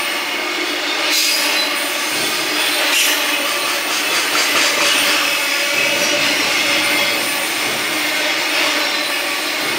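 Container wagons of a freight train rolling past on the rails: a steady, loud noise of wheels on track with steady high tones running through it.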